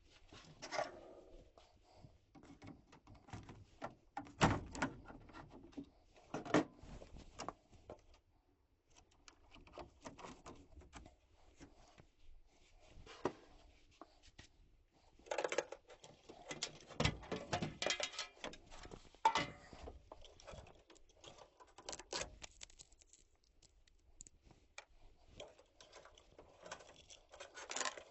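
Irregular clicks, knocks and rattles of hand tools and metal furnace parts being handled during disassembly, with a few sharper knocks about four and a half, six and a half and seventeen seconds in.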